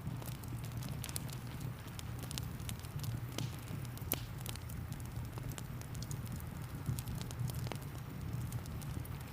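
Wood fire in a fireplace crackling, with irregular sharp pops and snaps over a steady low rumble, mixed with rain.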